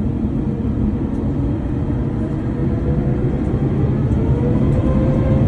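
Airbus A350's Rolls-Royce Trent XWB turbofan engines running for takeoff: a heavy rumble with a whine that slowly rises in pitch and grows louder as thrust builds.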